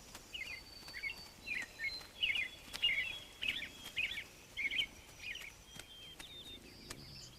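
Small songbirds chirping: a run of short, high chirps at about two a second, with a few thin whistled notes, thinning out after about five seconds.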